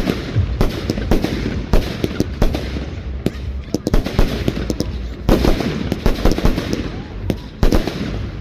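Fireworks display: a rapid, irregular string of sharp bangs with crackling between them over a low rumble.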